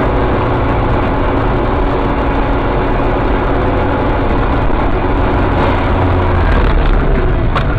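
Steady vehicle engine and road noise, a continuous low rumble with a faint steady hum, with a brief click near the end.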